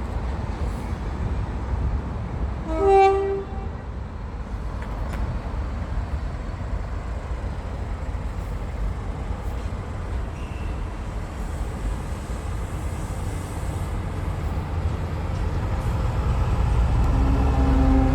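A train running with a steady low rumble, and about three seconds in a single short toot of a train horn. Near the end a deeper engine note builds up.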